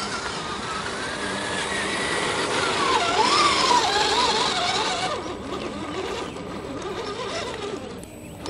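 Redcat Gen8 Scout II RC crawler's electric motor and metal-geared drivetrain whining, the pitch rising and falling as the throttle changes. A rushing hiss swells to its loudest about halfway through.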